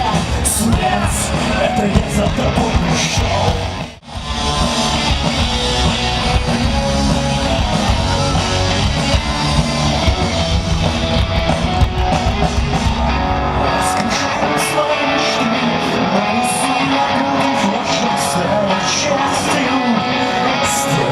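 Rock band playing live, with electric guitars and drums. The music drops out for a moment about four seconds in, and the deep bass falls away about two-thirds of the way through.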